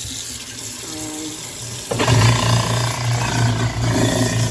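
Tap water running into a kitchen sink, then about two seconds in a garbage disposal switches on and runs with a loud steady hum and grinding rattle. She takes the noise as a sign that something is still wrong with the disposal after a chunk of glass jammed it.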